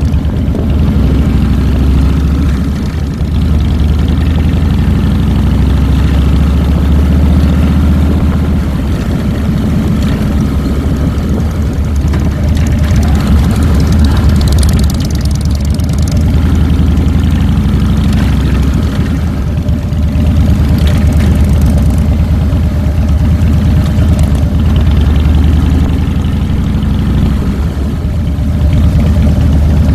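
Harley-Davidson Fat Boy's Twin Cam 96 V-twin engine running at low revs, steady with small rises and falls in level.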